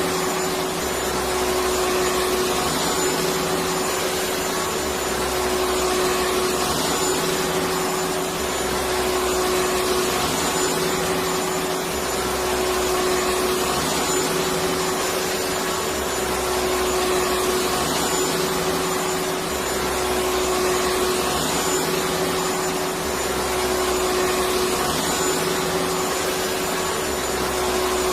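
Electric vacuum cleaner running steadily: a continuous whooshing whir with a constant hum, played as white noise to soothe a colicky baby.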